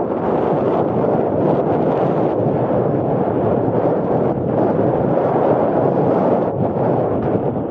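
Wind buffeting the microphone of a FIMI Palm handheld gimbal camera carried on a moving bicycle: a loud, steady rush of noise.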